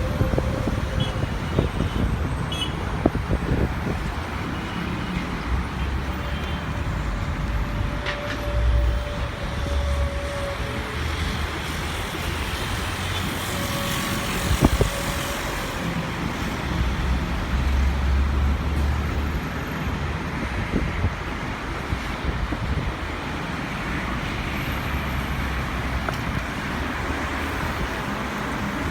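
Steady rumble of engines and traffic noise, heaviest in the low end and swelling briefly a couple of times, with a few faint tones and clicks over it.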